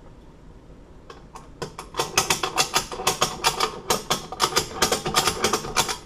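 Bolt cutters straining on a hardened 1/2-inch padlock shackle: a rapid run of sharp metallic clicks and creaks, about five a second, from the jaws and pivots under heavy load. It starts about a second in and builds, the sign that the cutters are being overloaded rather than cutting.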